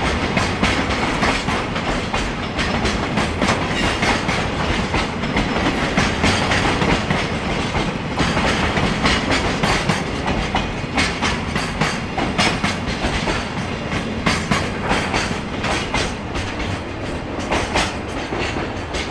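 JR Freight Koki 104 and Koki 106 container flat wagons rolling past, their wheels clicking over the rail joints in a steady clatter. The sound eases a little near the end as the last wagon clears.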